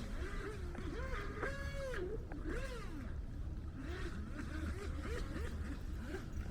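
Electric motor and jet pump of an RC jet ski whining, the pitch rising and falling over and over as the throttle is worked. A steady low rumble of wind on the microphone runs underneath.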